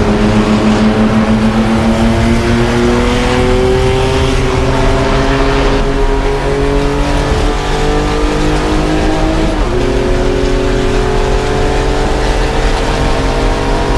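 Vintage race car's engine at racing speed, the revs climbing steadily for about six seconds, then holding unevenly. About nine and a half seconds in, the pitch drops sharply at a gear change and then climbs again.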